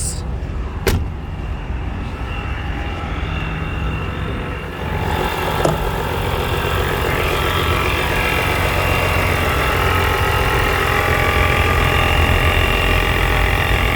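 The supercharged inline-six of a 2005 BMW M3 with a Dinan Stage 3 supercharger, idling steadily. There is a sharp click near the start and another after about six seconds. About five seconds in, the engine sound grows louder and brighter, with a thin high whine over the idle.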